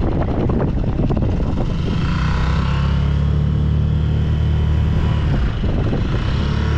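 Small 2-horsepower Tohatsu outboard motor running, uneven at first and settling into a steady run about a second and a half in, with wind and water noise over it.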